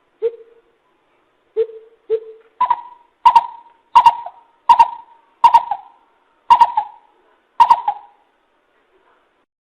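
Greater coucal calling: a series of deep hooting notes, three lower ones followed by seven higher ones a little under a second apart.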